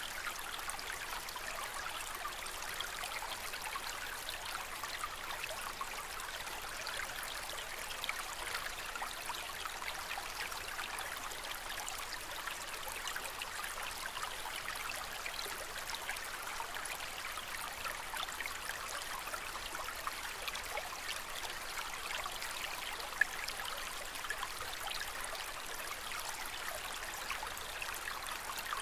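Water in a home aquarium trickling steadily, an even splashing hiss. A single brief click about two-thirds of the way through.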